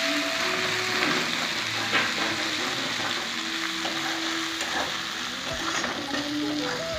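Sliced onions and spice paste sizzling in hot oil in a steel kadai, stirred with a metal spatula that knocks against the pan now and then.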